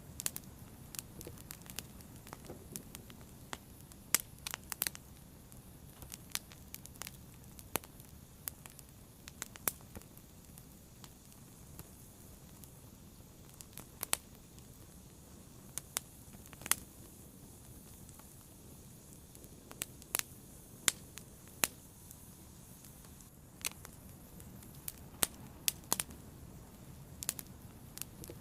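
Fire burning and crackling, with sharp pops and snaps at irregular intervals over a faint steady low rumble.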